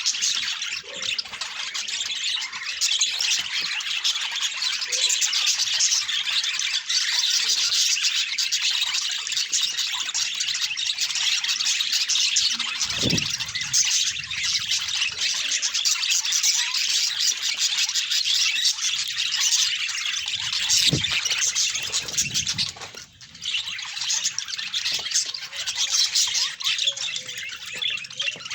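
A flock of budgerigars chattering and warbling together, a dense, continuous mass of rapid high chirps and clicks.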